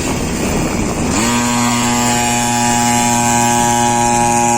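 50cc pocket bike engine revving up about a second in, then holding one steady high pitch.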